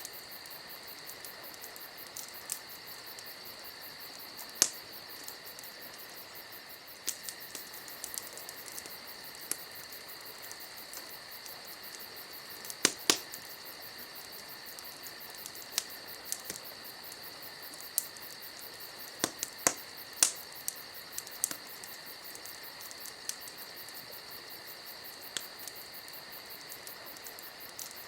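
Campfire crackling with scattered sharp pops, a few loud ones bunched about halfway through, over the steady shrill chirring of crickets.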